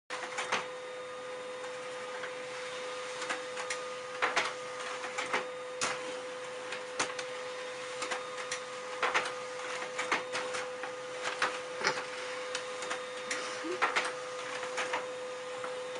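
A steady machine hum with irregular clicks and knocks throughout.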